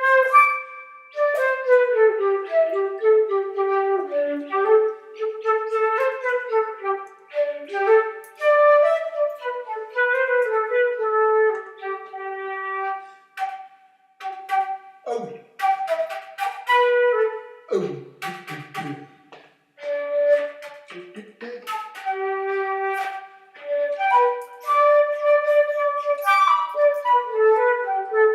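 A flute-like wind instrument playing an unaccompanied melody of separate notes in a middle register, with a couple of short breaks about halfway through.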